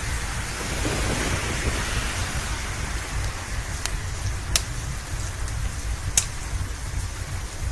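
Steady rain over a constant low rumble, with a wood fire crackling on top: a few sharp pops in the second half, the loudest about six seconds in.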